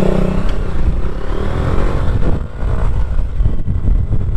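Motorcycle engine running while riding on the road, its note shifting slightly in pitch in the first couple of seconds over a steady low rumble.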